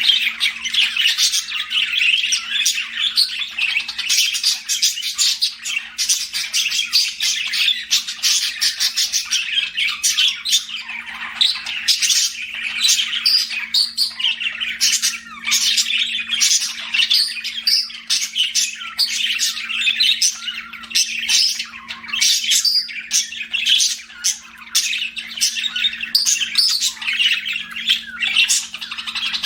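Budgerigars chirping and chattering nonstop in quick, overlapping squawks and warbles, with a faint steady low hum underneath.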